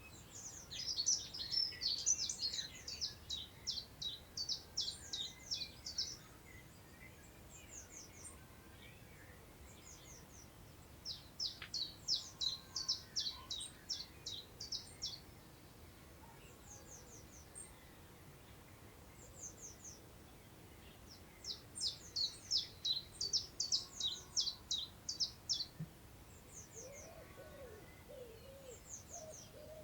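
A songbird singing loud phrases of rapid, repeated high notes, each a few seconds long and coming about every ten seconds, with shorter, fainter phrases between them. Lower slurred calls join near the end over a soft, steady background hiss.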